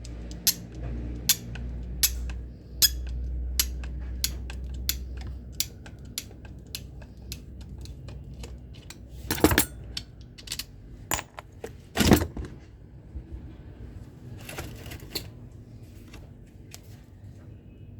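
Sharp clicks and small metal knocks of tools and parts being handled while an angle grinder is taken apart. Two louder knocks come in the middle, and a short rustle follows.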